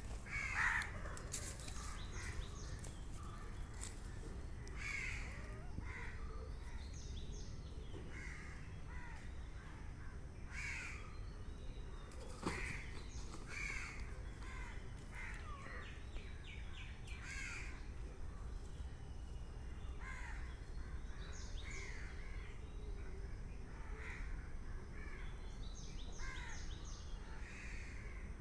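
Birds calling outdoors: many short, scattered calls throughout, some in quick high runs, over a steady low rumble.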